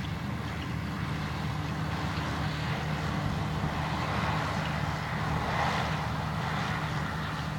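Tractor engine running steadily under way, with a low even hum and a rushing noise over it that swells slightly about two-thirds of the way through.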